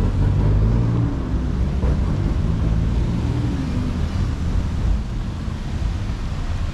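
Motor vehicle engine running close by in slow traffic, its note rising and falling in the first few seconds over a steady low rumble.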